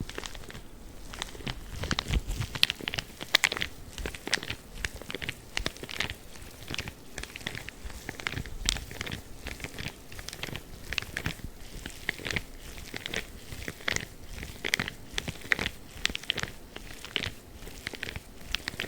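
Blue spiky gloves being worked as an ASMR trigger: a dense, irregular run of crackling, scratchy clicks, several a second.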